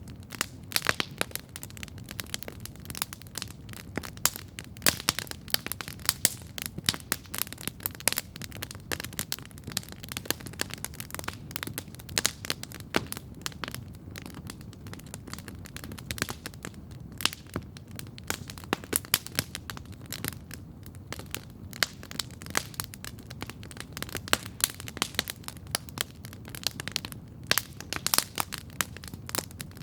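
Wood campfire crackling steadily, with dense sharp pops and snaps, many a second, over a low steady rumble of flames.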